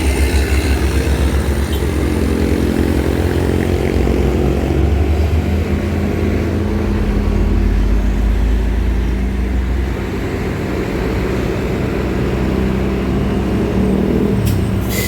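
Heavy truck's diesel engine running under load on a climb, a low, steady engine note that shifts lower about six seconds in. A couple of sharp clicks near the end.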